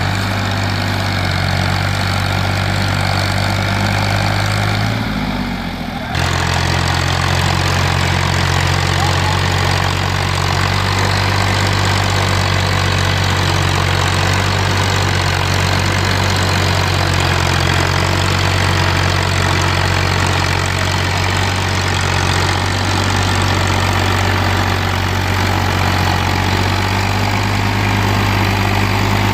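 Ghazi 65 hp tractor's diesel engine running steadily with a deep, even hum. About five seconds in, the pitch sags briefly, then the sound jumps back up at about six seconds and runs on steadily.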